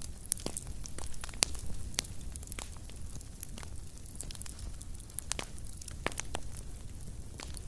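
Fire crackling in a fireplace: sharp pops and snaps at irregular moments over a steady low rumble of flames.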